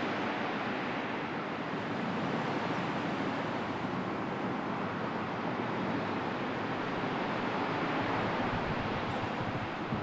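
Sea waves washing in a steady, unbroken surf, with wind blowing.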